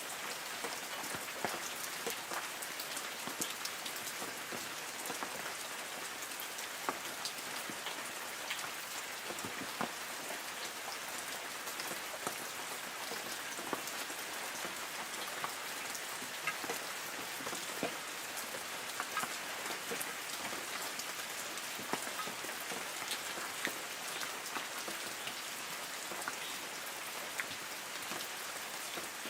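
Light rain falling on forest trees: a steady hiss with many scattered individual drops pattering on leaves.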